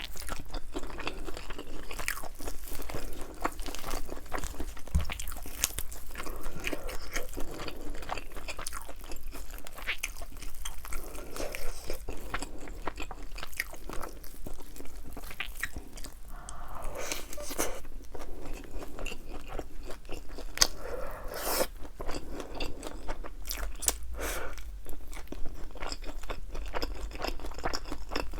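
Close-miked crunching and chewing of thin, crispy-battered fried chicken wings, with many small crackles of the coating breaking.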